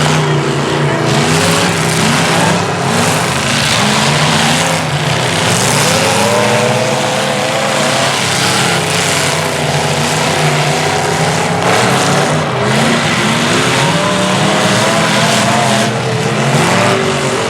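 Several race trucks' engines running hard in a figure 8 race, the pitch rising and falling as they rev and ease off. A continuous haze of engine and track noise lies underneath.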